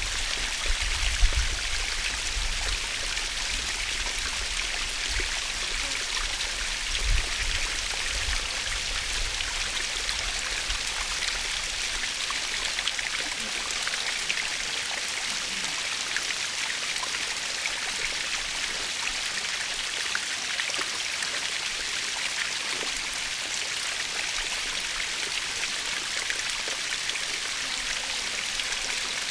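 Natural waterfall: a steady, even rush of falling and splashing water, with a few low rumbles in the first several seconds.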